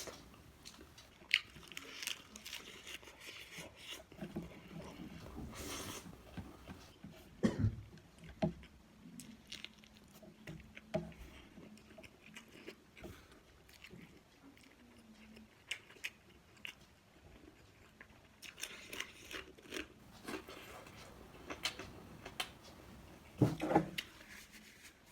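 A person chewing and biting food close to the microphone, with irregular crunches and small clicks.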